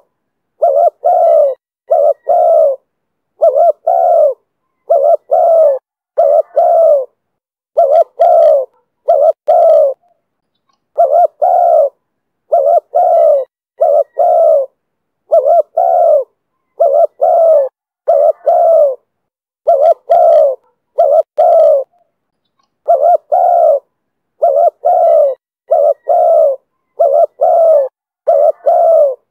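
Spotted dove cooing in the voice style Vietnamese keepers call 'thổ thúc bổi': loud, low coos in short phrases of two or three notes, repeated about every two seconds.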